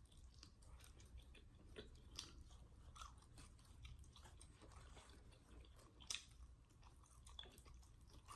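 Faint chewing with scattered soft mouth clicks, and one slightly sharper click about six seconds in.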